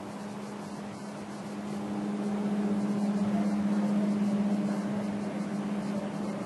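An electric train approaching on a third-rail line: a steady hum with a rushing rumble that swells about two seconds in and eases a little near the end.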